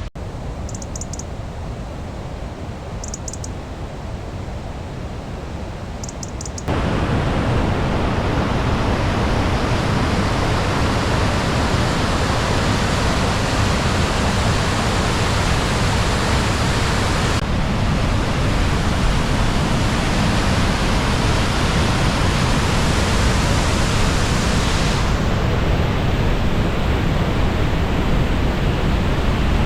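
High Force waterfall on the River Tees in spate: a loud, steady rush of falling water, stepping up louder suddenly about seven seconds in.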